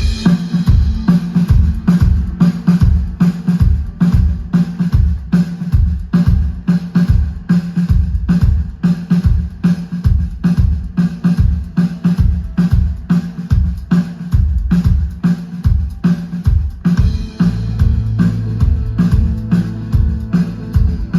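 A live band playing a song: a drum kit keeps a quick, steady beat over a held bass line, all starting abruptly at full volume. A deeper low part joins near the end.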